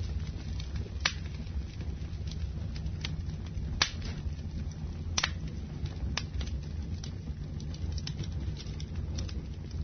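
Wood fire burning in a fireplace, crackling with sharp pops every second or so over a steady low rumble, the loudest pops about one, four and five seconds in.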